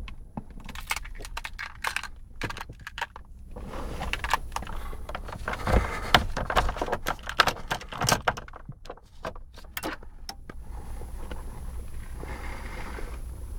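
Car keys jangling, with a run of sharp clicks, knocks and rustles as the key is handled at the ignition; the clicks stop after about ten seconds, leaving a steady low hiss.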